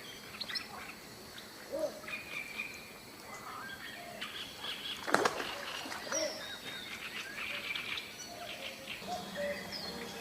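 Several birds chirping and calling, short scattered notes over a faint background hiss, with one sharp click about five seconds in.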